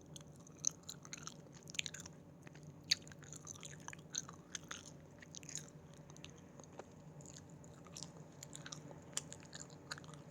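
Close-miked chewing of Haribo gummy candies: sticky, wet mouth clicks and smacks, coming thickly over the first five seconds or so and more sparsely after that.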